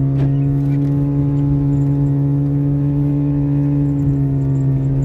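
Car engine running at a steady speed, a constant drone with no revving.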